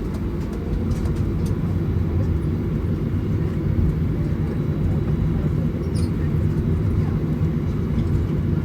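Steady low hum inside the passenger cabin of a Boeing 737-900ER on the ground before departure, with a few faint clicks near the start.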